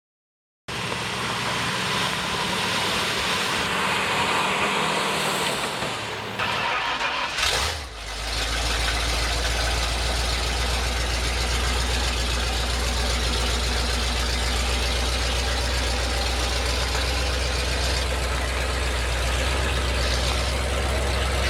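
Mud truck's 460 Ford V8 with open headers running at a steady, deep idle. The sound shifts abruptly about seven to eight seconds in, and a low steady rumble holds after that.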